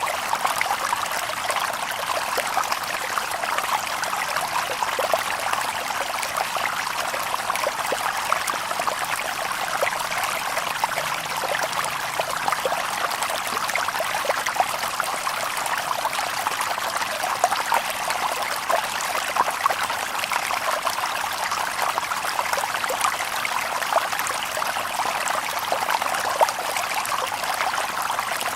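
Shallow stream babbling over stones: a steady rush of water dotted with many small splashes and trickles, with no birds.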